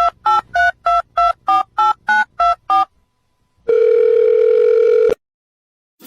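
Telephone keypad dialing tones: ten quick two-note beeps in a row, followed after a short pause by one steady tone of about a second and a half that cuts off suddenly.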